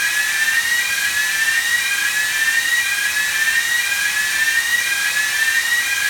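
Air-pressurization blower running: a loud steady rush of air with a high whine that keeps sliding upward in pitch and dropping back, about once a second.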